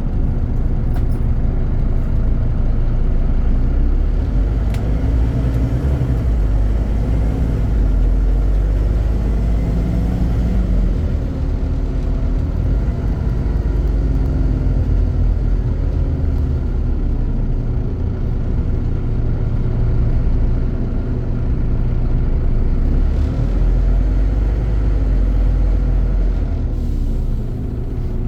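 Scania CN270UB city bus running under way, its diesel engine and drivetrain giving a heavy, continuous low rumble. The engine note rises and falls several times as the bus speeds up and slows.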